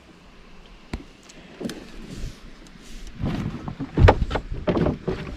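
Knocks and bumps of paddles against a canoe hull, with water sounds, in a quick run of knocks starting about three seconds in, the loudest about four seconds in. Before that, a couple of single clicks.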